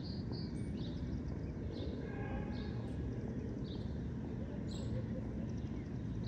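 Birds chirping, short high calls about once a second, over a steady low rumble of a city park's background. A brief faint pitched sound comes about two seconds in.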